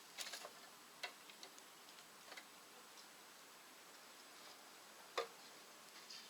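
Wood burning in a rocket stove, crackling faintly: scattered soft pops and clicks over a quiet hiss, with one sharper pop about five seconds in.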